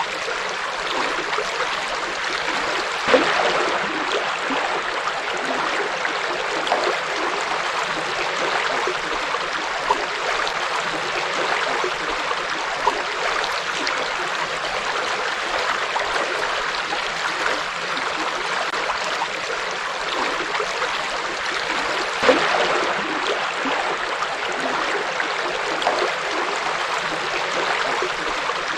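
Forest river flowing over stones: a steady rushing babble with small splashes standing out now and then, two of them a little louder about 3 and 22 seconds in.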